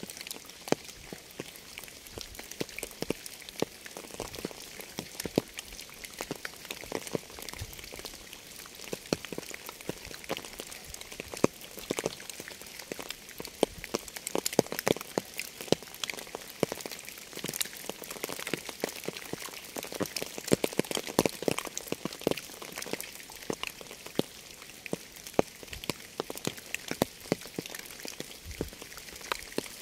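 Rain falling, with many individual raindrops striking a surface as dense, irregular sharp ticks over a steady hiss.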